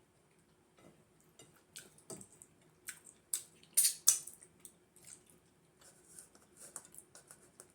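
Close, wet mouth sounds of eating fufu and soup: chewing and lip smacks in a string of sharp clicks, loudest just before the 4-second mark.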